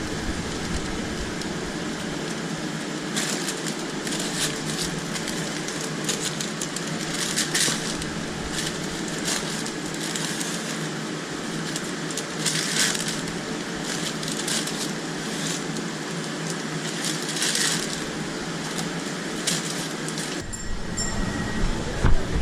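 Food-truck kitchen noise: a steady rushing sound with short hissing crackles every second or two. A deeper rumble comes in near the end.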